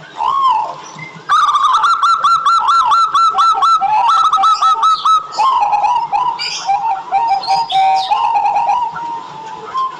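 Zebra doves (perkutut) cooing. One note comes first, then fast runs of short, clear, arched coo notes several a second, with two or more birds overlapping.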